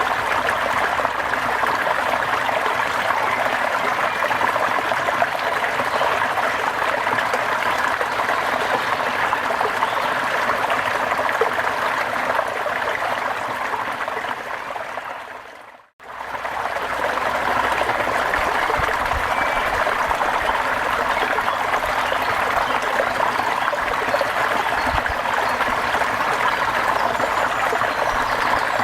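Steady rain: an even, dense hiss of falling water. About fifteen seconds in it fades briefly to silence and swells straight back, like a loop point in the recording.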